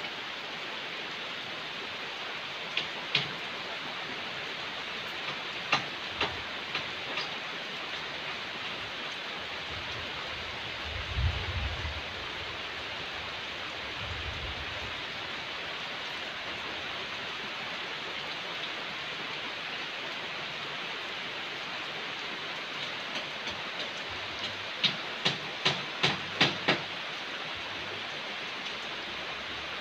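Heavy rain falling steadily, a constant even hiss. Sharp taps stand out now and then, with a quick run of about seven near the end, and a brief low rumble about eleven seconds in.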